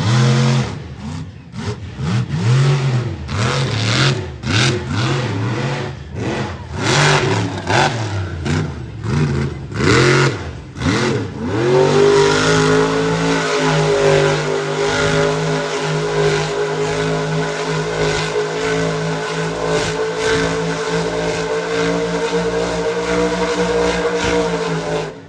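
Monster truck's supercharged V8 engine revving hard, its pitch sweeping up and down over and over for the first half. It then holds steady at high revs for a long stretch before dropping away suddenly at the end.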